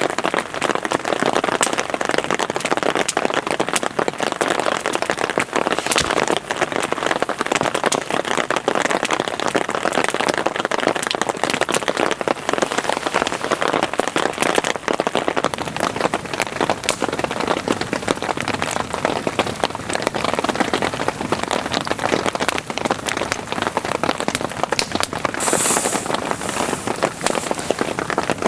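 Heavy rain falling steadily, a dense patter of drops striking a surface. A short high hiss rises over it about three seconds before the end.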